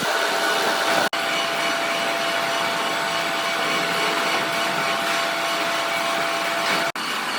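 Workshop machine running steadily, a dense noise with a steady whine through it, briefly cut off twice.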